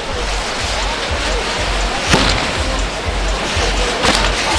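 Ground fireworks burning: a continuous loud hiss and fizz, with sharp cracks about two seconds in and twice near the end.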